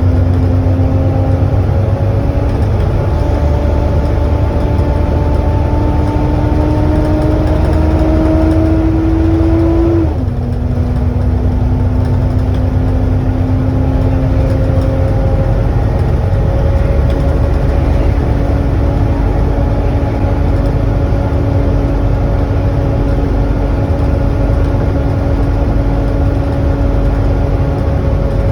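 Volvo B7TL double-decker bus running under way, its loud whining 'hoover' drive note over a deep engine rumble. The whine climbs as the bus accelerates, falls sharply about ten seconds in as the gearbox changes up, then holds almost steady.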